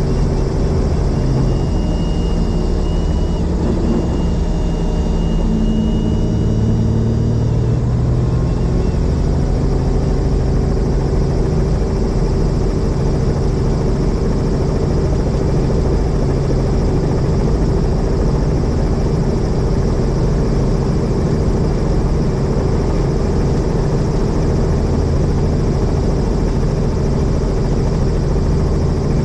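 Helicopter engine and rotor running steadily in flight: a constant loud drone with a steady hum, and a faint thin high tone in the first several seconds.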